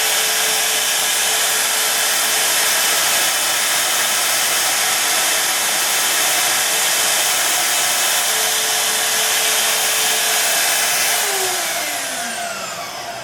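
Electric shop machine running steadily with a loud whooshing hiss, then switched off near the end, its pitch sliding down as it winds down.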